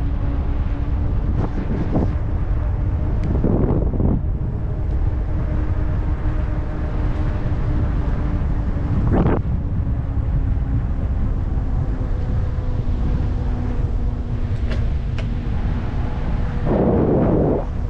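Wind rumbling over the microphone of a camera on a moving e-bike, with a steady low hum underneath and a few brief louder gusts, the biggest near the end.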